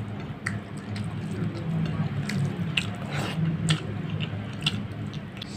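Close-miked eating by hand: wet chewing and a run of sharp lip-smacking clicks from a mouthful of rice and fish curry, over a steady low hum.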